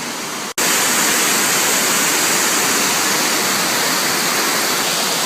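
Gorge waterfall rushing steadily. It cuts out for an instant about half a second in, then comes back louder and holds steady.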